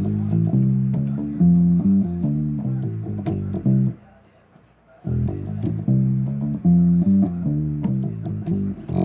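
Bass guitar playing a stepping riff of single notes, stopping after about four seconds, then playing the same phrase again about a second later.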